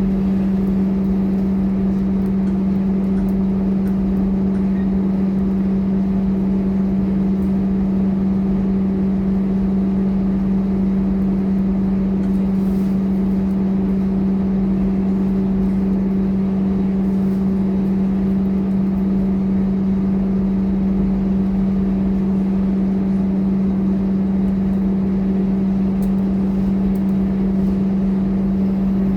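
Scania K230UB city bus running with a loud, steady hum that holds one pitch throughout, with no revving or change in engine speed.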